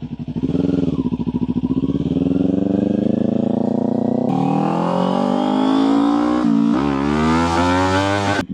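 Kawasaki Ninja 400's parallel-twin engine accelerating from a start, revs climbing steadily. It drops in pitch as the rider shifts up about four seconds in and again about six and a half seconds in, then climbs again after each shift.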